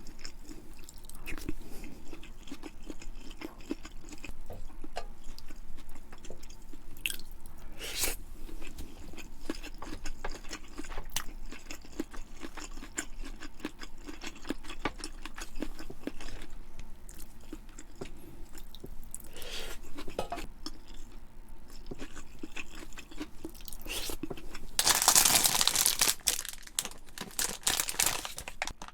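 Close-miked chewing and crunching of food by one person eating: dense, irregular wet clicks and crackles, with a louder, noisier stretch of about two seconds near the end.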